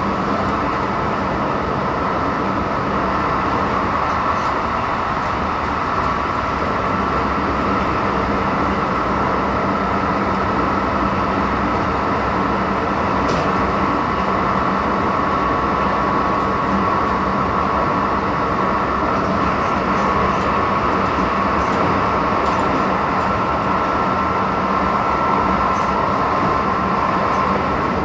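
Keisei 3050 series electric train (car 3054-8, Toyo IGBT-VVVF) running at a steady speed, heard from inside the car: continuous rolling noise with a steady hum.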